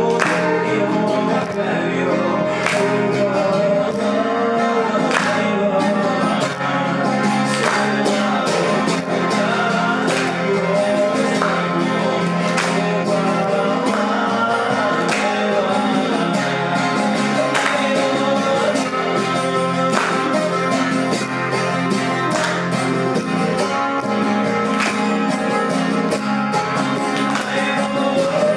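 Acoustic guitar strummed in a steady rhythm, with a voice singing a Belarusian folk song.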